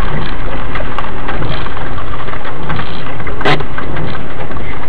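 Mitsubishi Pajero engine idling, heard loud from inside the cabin under a dense crackling noise with scattered sharp clicks, the strongest about three and a half seconds in.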